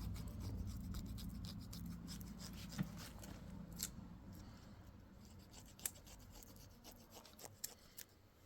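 Faint scattered clicks and light rubbing, over a low hum that fades away.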